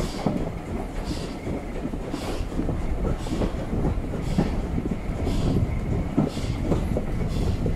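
Steam-hauled passenger train running along, heard from an open carriage window: a steady rumble of the coach wheels on the rails, with a hiss that pulses about once a second.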